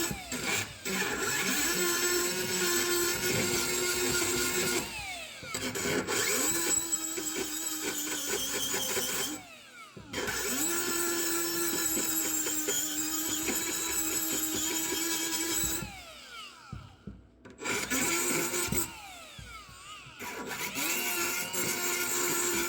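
Electric rotary power tool running steadily in several long runs. It winds down and spins back up a few times.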